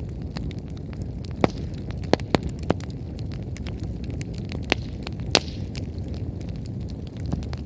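Firewood burning in a bonfire: a steady low rush of flames with irregular sharp crackles and pops, about half a dozen of them loud snaps.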